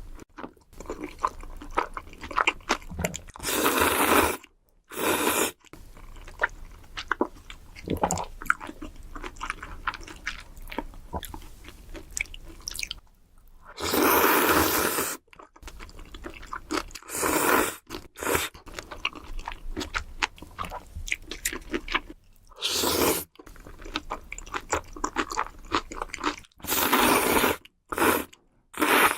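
Close-miked eating sounds: pasta being chewed with constant small wet clicks, broken about six times by louder, longer noisy bursts.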